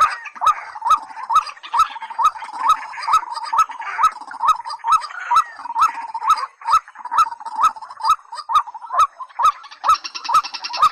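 White-breasted waterhen calling: a monotonous series of short, upward-hooked notes, about two a second. A steady, even clicking runs underneath.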